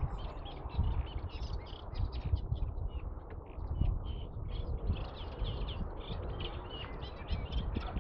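Songbirds chirping and singing in quick, high notes throughout, over a low, uneven rumble.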